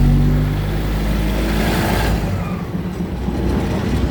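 Diesel railcar engine running with a steady low drone, easing slightly after about two seconds, with a brief hiss just before that.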